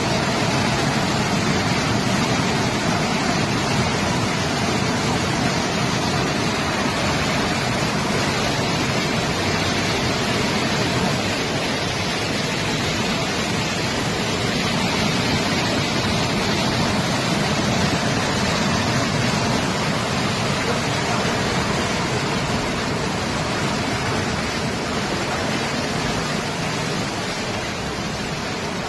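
Floodwater rushing in a steady, loud roar that eases slightly near the end.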